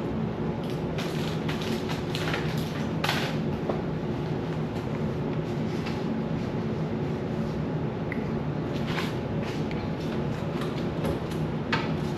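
Intermittent light clatter and scraping of items being handled during fridge cleaning, over a steady low hum.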